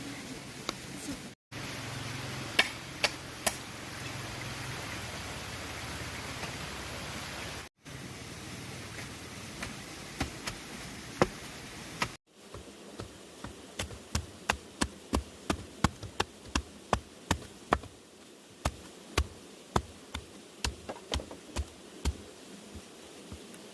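Sharp tool strikes on wood or bamboo: a few scattered knocks at first, then a steady run of about two to three blows a second, over a constant insect buzz.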